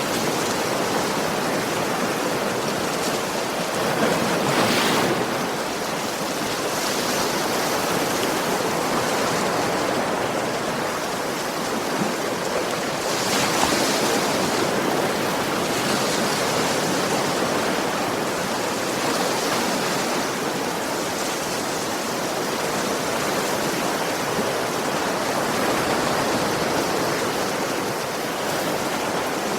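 Ocean waves washing onto a beach in a continuous rush, with a couple of louder swells as waves break, one about four seconds in and another about thirteen seconds in.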